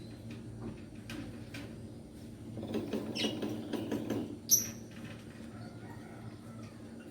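Hill myna shuffling and scratching about in its cage, with scattered small clicks and a rustle in the middle. About four and a half seconds in comes one short, sharp, high squeak.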